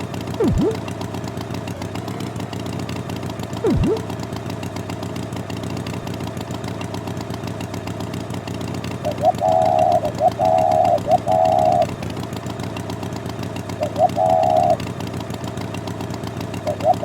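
Cartoon tractor engine running steadily, with short pitched beeps in groups laid over it and a couple of quick falling swoops, one about half a second in and one near four seconds.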